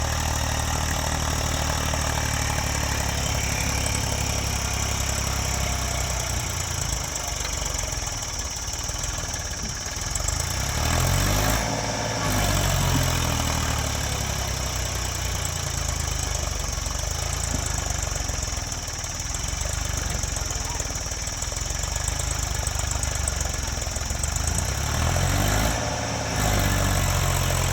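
Massey Ferguson tractor's diesel engine running hard under load, straining to pull a truck uphill. Its revs rise and fall twice, about a third of the way in and again near the end.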